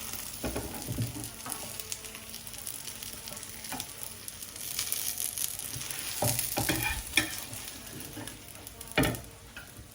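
Egg-topped flatbread sizzling steadily in oil in a frying pan, with a few sharp knocks and scrapes of a utensil against the pan as the roll is handled.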